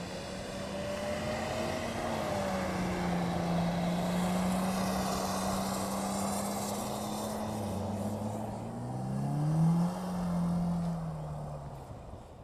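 BMW car engine revving as the car drifts on snow, held at fairly steady revs, with a quick climb in revs and a loud peak about nine to ten seconds in, then easing off and fading as the car moves away.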